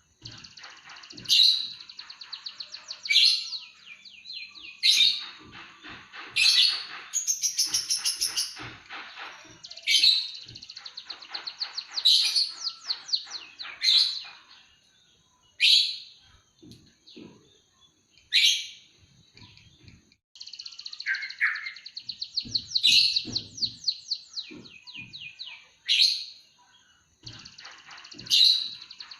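Emprit kaji songbird singing a loud canary-style song: sharp high chirps every second or two, linked by fast rattling trills.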